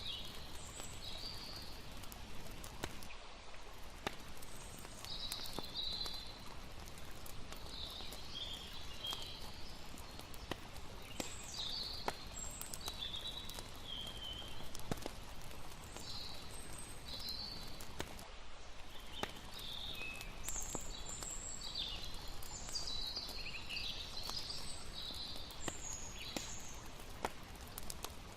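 Layered night ambience: a campfire crackling with frequent sharp pops over a steady low rush, and scattered high chirping calls throughout.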